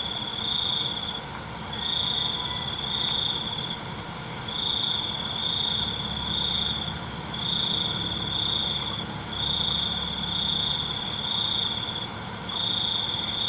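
Crickets chirping: one loud, high trill comes in bursts of about a second, each bundled into two or three close phrases and separated by short pauses. Under it runs a steady chorus of higher-pitched insects, with a faint low rumble.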